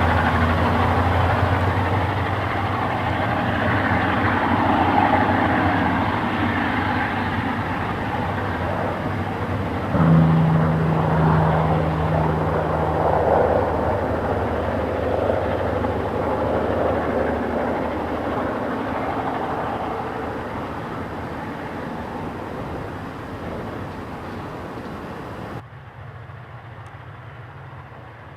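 EMD diesel locomotives of the GM and ALF classes working hard under load with a heavy grain train: a deep steady engine drone. A higher engine note comes in sharply about ten seconds in, and the sound then slowly fades away before dropping off suddenly near the end.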